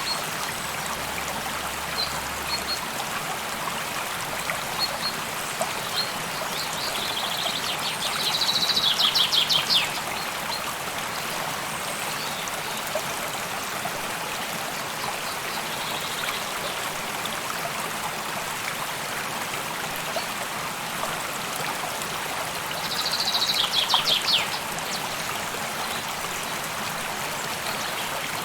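A stream running steadily. A bird gives a short, rapid trill twice, about a third of the way in and again near the end, with a few faint chirps in between.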